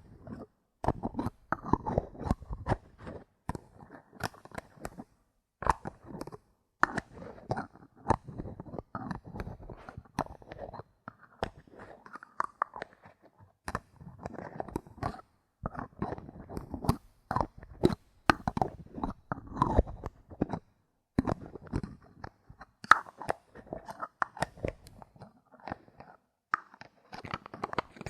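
Bottle caps handled close to the microphone: a dense, irregular run of crisp clicks, taps and crunching, with brief pauses.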